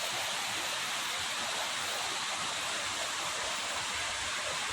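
Steady rushing of a large waterfall's falling water.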